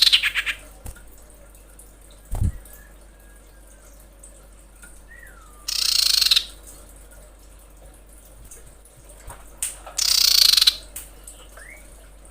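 Female common iora (cipoh) giving harsh, rasping calls, the call used to lure males. There are three loud calls about four seconds apart, with faint short whistled slurs between them. A single low thump comes about two seconds in.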